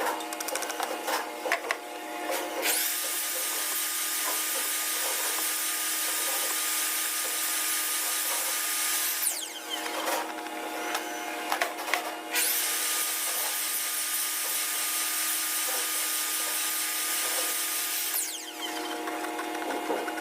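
A woodworking power tool runs twice, about six seconds each time, with a high, steady whirr. Each run spins up and then winds down when it is switched off.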